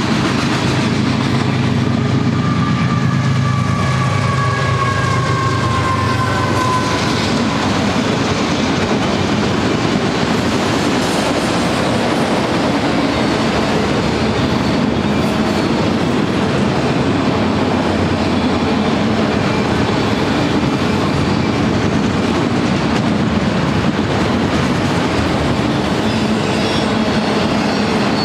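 Union Pacific freight train rolling past. For the first several seconds its mid-train GE diesel locomotives go by with a low engine drone and a high whine that falls in pitch. Then a long string of autorack and freight cars rolls by with steady wheel noise and clickety-clack over the rail joints.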